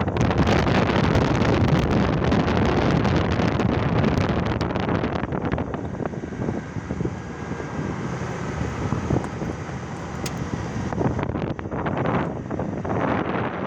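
Wind buffeting the microphone: a steady rushing noise, loudest for the first five seconds, then weaker with scattered small knocks.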